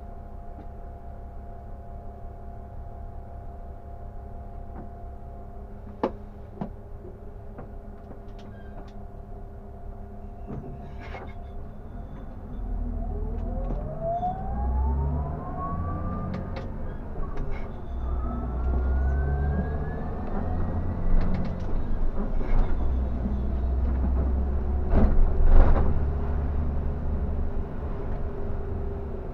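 Scania K360 bus under way: a steady engine hum at first, then from about twelve seconds in the engine pulls harder and a whine rises twice as the bus picks up speed, with a few scattered knocks.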